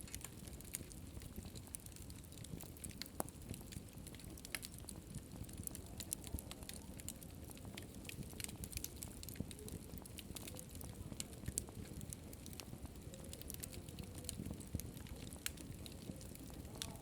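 Wood fire in a fireplace crackling, with irregular sharp pops and snaps scattered over the low steady rumble of the flames.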